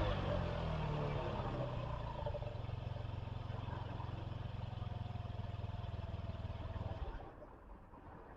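Honda Dio Z4 scooter's 50cc four-stroke engine idling steadily just after a rev, then switched off about seven seconds in.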